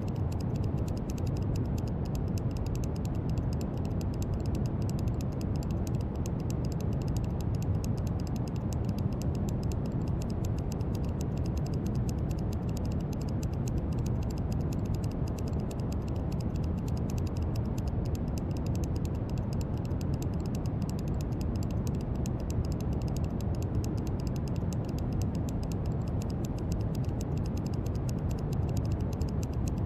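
Steady brown noise: an even, deep rumbling hiss, strongest in the low end, with a faint fine crackle on top.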